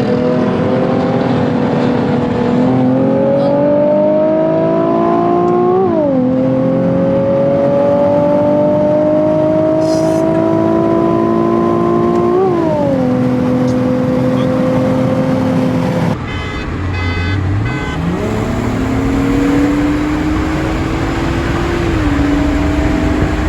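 A car engine pulling hard through the gears: its pitch climbs steadily and drops sharply at upshifts about six and twelve seconds in, then holds steady. After an abrupt cut, a second pull climbs from low revs, with another shift near the end.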